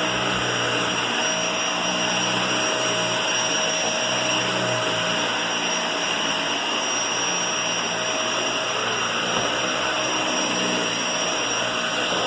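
Vacuum cleaner running steadily: an even motor whine over rushing air, holding the same pitch throughout.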